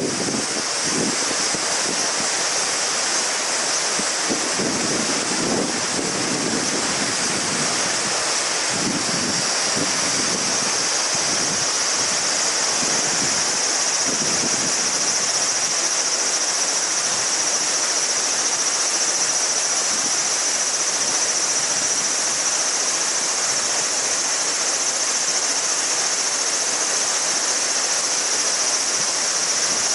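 A mountain river babbling and rushing over stones in a steady wash, overlaid by a chorus of cicadas buzzing in a high, sustained band that grows stronger about halfway through. Some low gusty rumbles swell and fade in the first few seconds.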